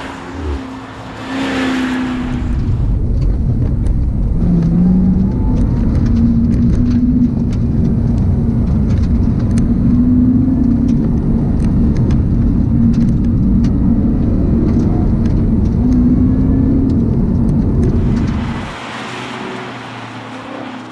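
Ford Falcon XR8's supercharged 5.0-litre V8 pulling hard at speed, with a steady engine note, a brief rise in pitch about four seconds in, and tyre and road rumble. Near the end the engine rumble drops away sharply as the car comes off the throttle.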